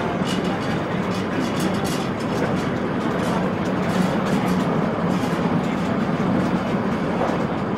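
Meter-gauge passenger train running across a steel rail bridge, heard from aboard a coach: a steady rumble of wheels on rails and coach running noise, with faint light clicks.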